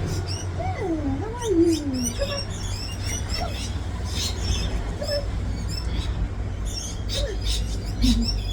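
Small parrots, rosellas and lorikeets, chirping and chattering in quick high calls, over a steady low rumble.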